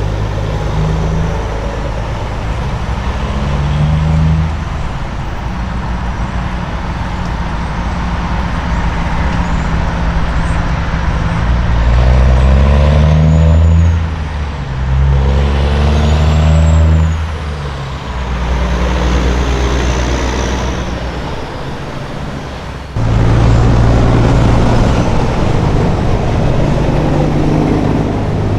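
Diesel semi trucks driving by with a low engine rumble over road noise. The engine note climbs and drops back twice in the middle, as one truck pulls through its gears, and the sound changes abruptly to another heavy engine about 23 seconds in.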